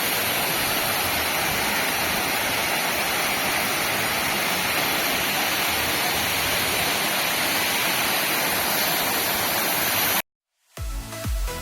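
Waterfall: a steady, dense rush of falling water that cuts off suddenly about ten seconds in. After a brief silence, electronic dance music with a beat starts.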